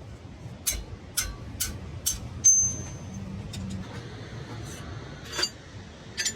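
Sharp metallic clinks and knocks of tools and parts during wheel bearing press work. There are five in the first two and a half seconds, the loudest with a short high ring, then two more near the end, over a low steady hum.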